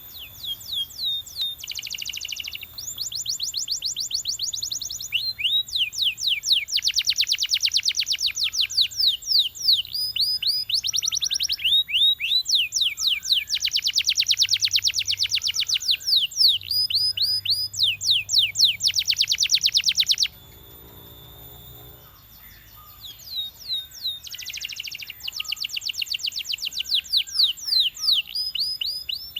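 Belgian canary singing: fast trills and long runs of quick downward-sweeping notes, high and bright, with a pause of about three seconds a little past the middle before the song resumes.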